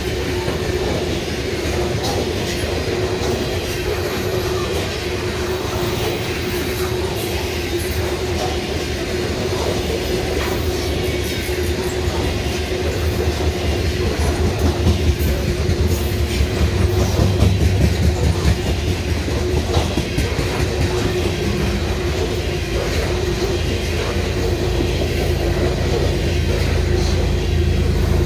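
Loaded covered hopper cars of a freight grain train rolling past close by: a steady rumble of wheels on rail with a stream of clicks from the wheels over joints, and a steady tone running underneath. Near the end the diesel of an approaching mid-train locomotive grows louder.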